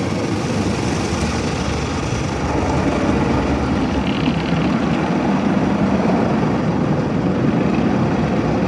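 Automatic car wash equipment heard from inside the car's cabin: a loud, steady rumble of machinery and spray working over the car during the coloured foam soap stage.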